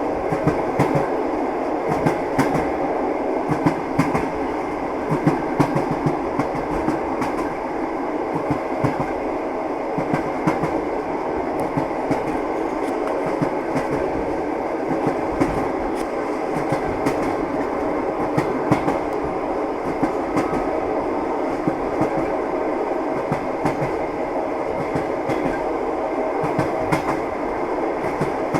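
Moving train's wheels clacking over rail joints: an irregular run of sharp knocks over the steady running noise of the railway carriage.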